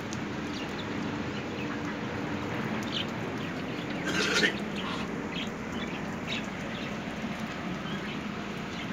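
Steady rain falling on garden plants and wet ground, with a bird calling once about four seconds in.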